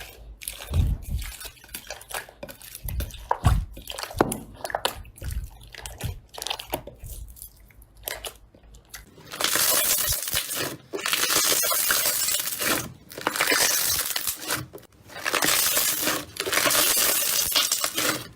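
Slime being squeezed and poked by hand: irregular sticky clicks and soft pops, then, from about halfway, four long stretches of dense crackling crunch, as from crunchy slime being kneaded.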